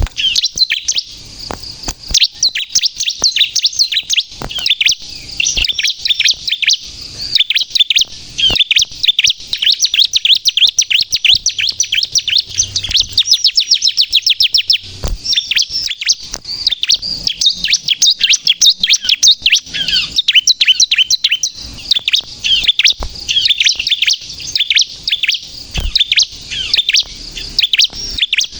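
Bar-winged prinia (ciblek) singing a fast, unbroken run of high chirps, with a rapid trill about halfway through.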